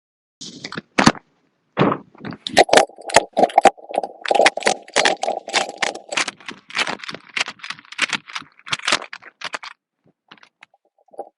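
Rapid, irregular clicking and rattling of gear being handled close to the microphone, most of it from about two seconds in until near the end.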